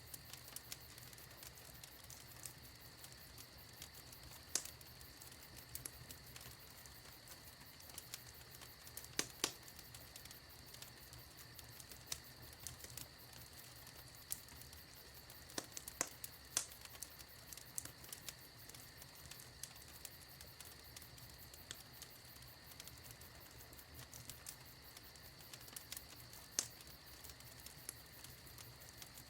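Wood fire in a fireplace crackling: irregular small pops and snaps over a faint steady hiss, with a few louder pops about nine, sixteen and twenty-six seconds in.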